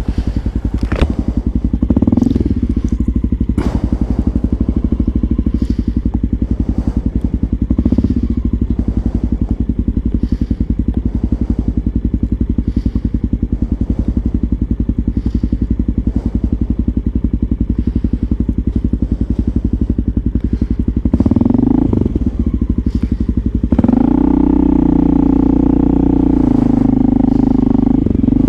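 Motorcycle engine running while riding at low speed, with a few short throttle surges, then settling into a steadier, higher engine note near the end as the bike speeds up.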